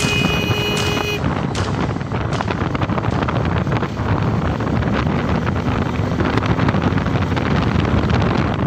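Steady wind rushing over the microphone on a moving motorcycle, with the bike's engine and road noise underneath.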